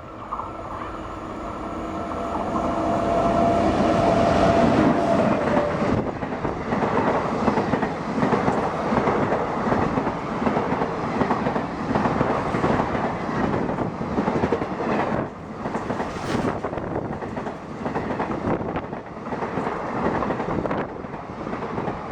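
Express train passing at high speed. The locomotive's sound builds over the first few seconds with a steady tone that drops in pitch as it goes by, then the coaches rattle past with a continuous clickety-clack of wheels over the rail joints.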